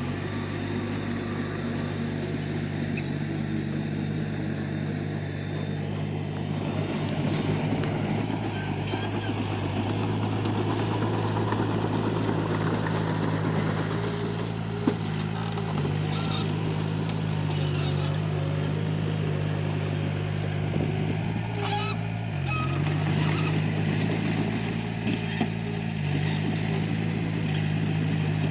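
Komatsu D31P bulldozer's diesel engine running steadily under load, dipping briefly in pitch twice as it takes up the push, with a few short knocks from the machine and its load.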